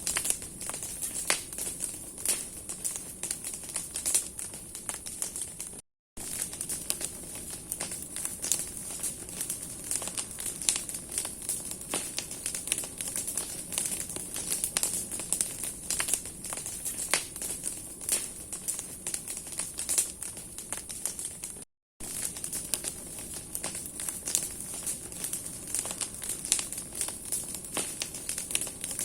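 A bonfire of wood and branches burning, with dense, irregular crackling and popping over a steady hiss. The sound cuts out briefly twice, about six seconds in and again near twenty-two seconds.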